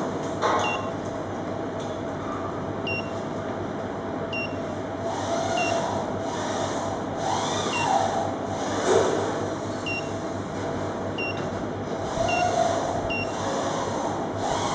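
A machine running with a steady mechanical noise. Short high beeps repeat every second or so, and a few slow rising-and-falling tones sound over it.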